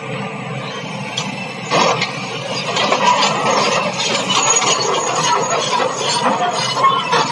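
Large excavator's steel crawler tracks and undercarriage squealing and grinding as the machine drives down off a transport truck. The screeching gets louder from about two seconds in and carries on.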